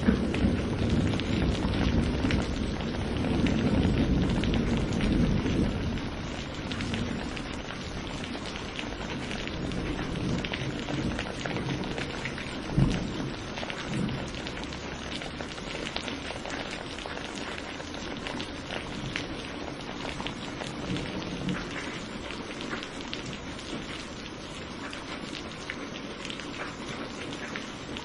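Steady rain falling and pattering, with many individual drop ticks. A low thunder rumble dies away over the first few seconds. A single sharper knock comes about halfway through.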